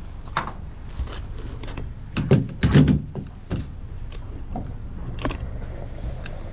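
Mechanical clicks and clunks of handling at a fuel pump, opening the truck's fuel filler and working the nozzle, over a steady low hum. The loudest two clunks come about two and three seconds in.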